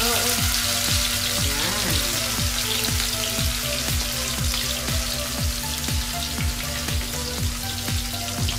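Small ground-pork patties frying in shallow oil in an aluminium wok, with a steady sizzle. Background music with a steady beat plays underneath.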